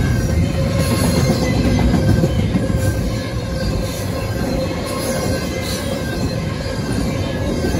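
Double-stack intermodal container well cars rolling past close by: a steady rumble of steel wheels on the rails, with faint steady wheel squeal.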